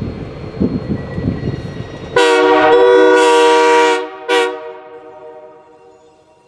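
Steam locomotive working with its exhaust chuffing, then its steam whistle sounds one long blast of about two seconds followed by a short toot, the tone fading out afterwards.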